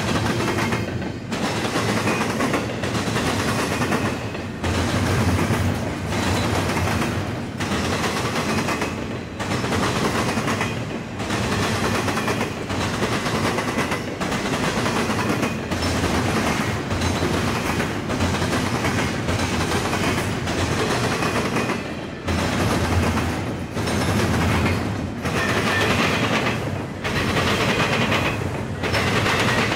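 Double-stack intermodal freight train rolling past at speed, its steel wheels clattering on the track. The clatter swells and dips about every one and a half to two seconds as each car goes by.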